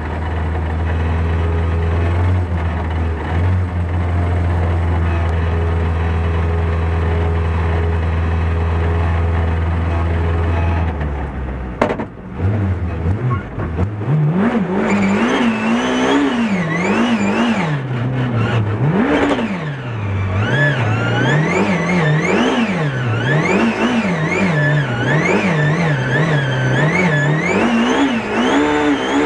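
BMW E36 Compact rally car's engine, heard from inside the cabin: a steady idle at first, then a sharp click about twelve seconds in. From about fourteen seconds the engine revs up and falls back again and again, about once a second, as the car is driven hard through the stage.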